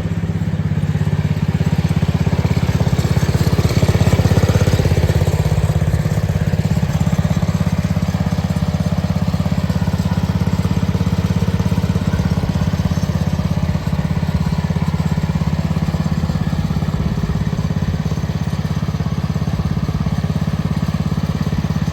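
Small tractor's engine running steadily at an even pitch through a nearly straight-piped exhaust, louder for a moment about four seconds in.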